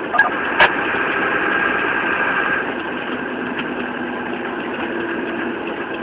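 Fire engine running steadily, with a short click about half a second in.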